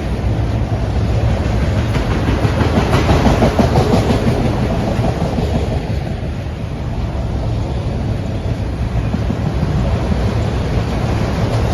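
Norfolk Southern freight train rolling past, the cars' wheels rumbling and clacking along the rails, with a slightly louder stretch about three seconds in.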